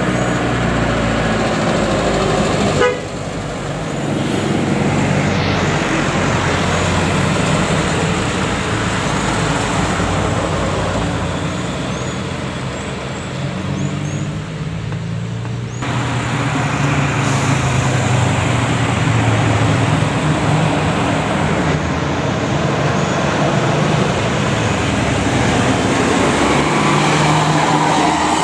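Buses and trucks running in road traffic, with horn toots. Sudden changes about three seconds in and again about halfway through.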